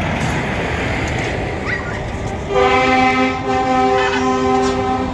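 Truck air horn blowing a loud chord of several notes, starting about two and a half seconds in and held to the end with a brief dip partway, over steady background rumble.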